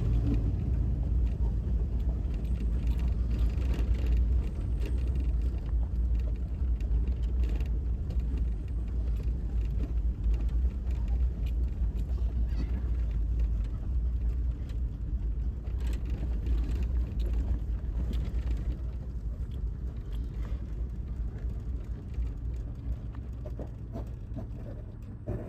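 1999 Chevy Tahoe with its Vortec 5.7 L V8 driving along a dirt trail: a steady low rumble of engine and tyres, with occasional knocks and rattles from bumps, easing off a little near the end.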